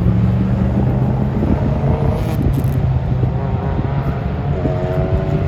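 Race car engines running hard on track, a steady low engine note throughout, with a second, higher-pitched engine note coming in near the end.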